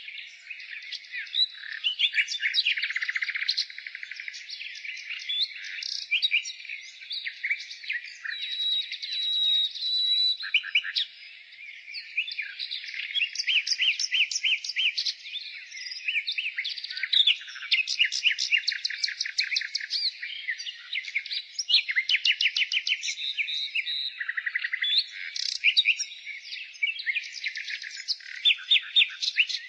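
Nightingale singing: a steady run of rapid trills and quickly repeated high notes, phrase after phrase with only brief pauses.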